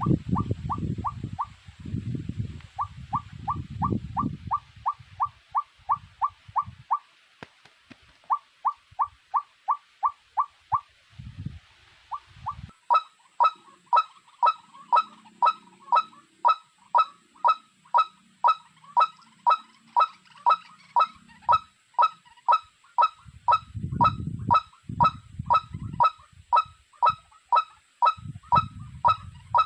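A bird call repeated over and over as short, downward-slurred notes, about two to three a second. The notes become louder and more regular about 13 seconds in. Low rumbles of handling or wind come at the start and again near the end.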